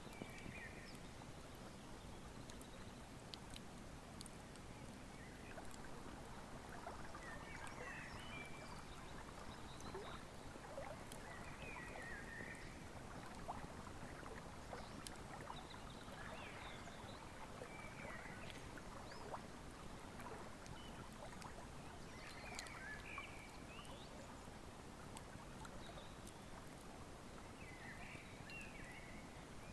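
Wood fire crackling with scattered sharp pops over the soft, steady rush of a flowing river, while an animal gives short high calls every few seconds.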